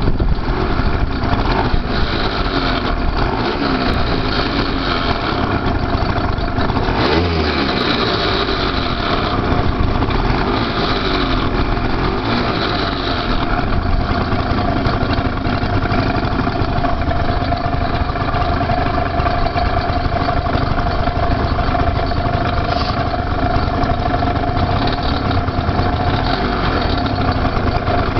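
Suzuki Let's 2 scooter's 50cc two-stroke engine and drivetrain running, revved up and down in the first part, with a steady whine through much of the second half: abnormal noise that the owner puts down to the drive system.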